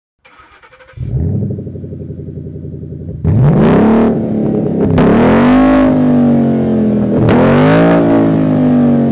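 Ford Mustang GT 5.0L V8 through a straight-through SLP Loudmouth axle-back with no mufflers: the starter cranks briefly, the engine catches with a flare about a second in and idles, then from about three seconds in it is revved repeatedly, climbing in pitch about every two seconds.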